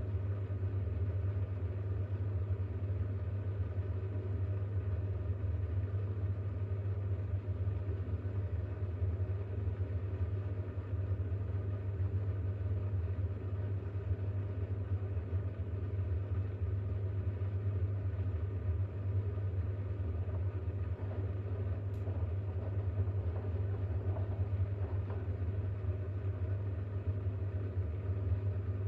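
Bosch WAX32GH1 washing machine running with a steady low hum as it drains and turns the drum to distribute a load of towels ahead of an intermediate spin.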